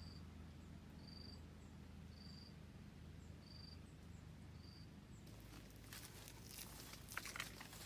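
Short high chirps repeating about once a second from a small animal, over a faint low hum. From about five seconds in, rustling and crackling with a few sharp clicks takes over.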